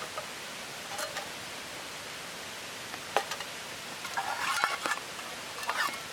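Scattered clicks and light clatter of gear being handled, thickest in a short run about four to five seconds in, over a steady hiss.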